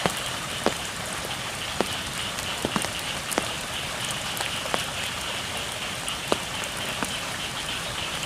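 Steady rain falling on the rice field, with scattered louder drops striking close by. A steady high-pitched chorus of frogs carries on behind it.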